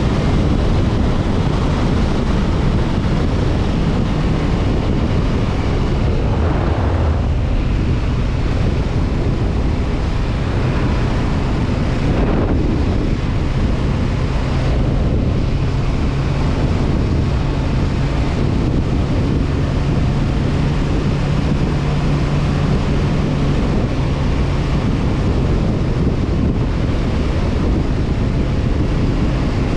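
Wind buffeting the camera microphone on a moving motorcycle, over the steady hum of a Honda CB500F's parallel-twin engine at cruising speed. The engine note holds steady for most of the stretch, with a couple of brief swells of rushing noise.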